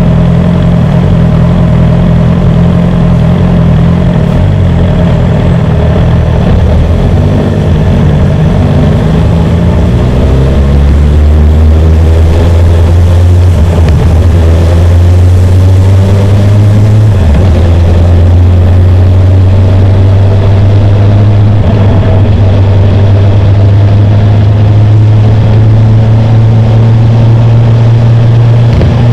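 BMW S1000R's inline-four engine running at low revs, then picking up about ten seconds in with a rising pitch and holding a steady higher note, with a brief dip partway through.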